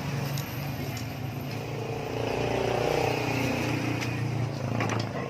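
A motor vehicle's engine running steadily, its sound swelling to a peak mid-way and then easing off, as when a vehicle passes by, with a few light metallic clicks.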